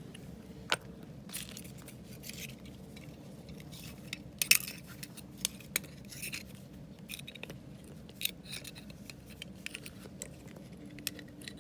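Small metal parts being handled: a steel universal-joint cross and a measuring caliper clinking, clicking and scraping as the caliper is set over the cross. The clicks come irregularly, with the loudest cluster about four and a half seconds in.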